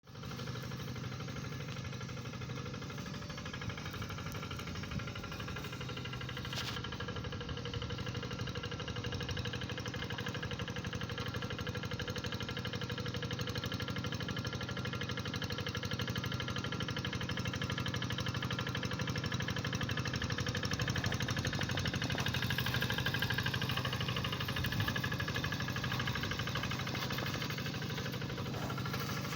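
Tractor engine running steadily, with a brief click about seven seconds in.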